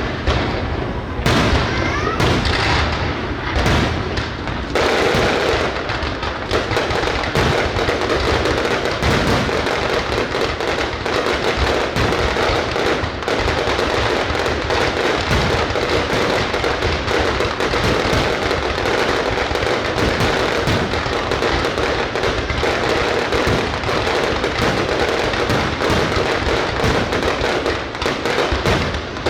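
Fireworks going off: separate bangs at first, then from about five seconds in a dense, continuous barrage of cracks and bursts.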